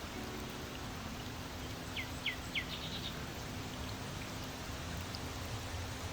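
Steady hiss of running water and rain, with a small songbird calling about two seconds in: three quick chirps, each sliding down in pitch, then a brief higher twitter.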